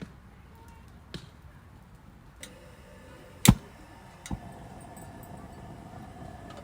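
A few sharp clicks and knocks, the loudest about three and a half seconds in, with a faint steady hum in the background from about halfway.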